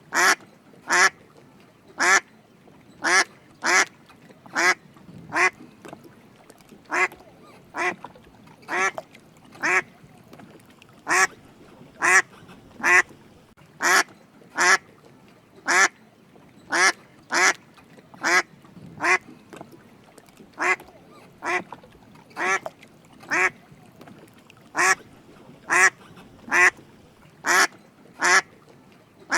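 Drake mallard duck quacking: short, rasping calls, repeated about once a second and often in quick pairs.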